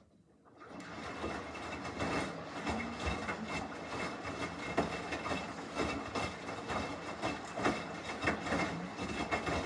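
Samsung washing machine running mid-cycle, its drum turning the load with a steady jumble of knocks and clatter; it starts up within the first second.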